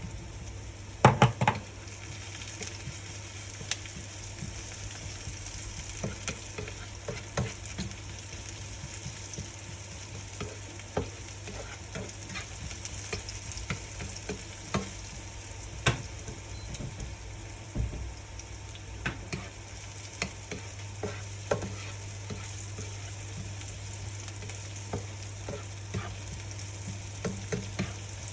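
Food sizzling as it fries in a pan, stirred with a utensil that knocks and scrapes against the pan at irregular intervals, with a cluster of louder knocks about a second in.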